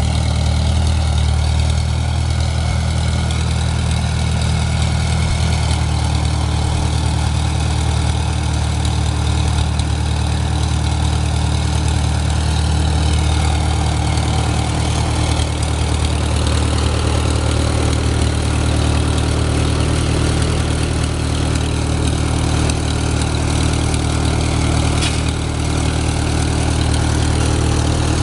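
Engine running steadily at a constant speed, with a strong low hum and even firing pulses and no change in pace.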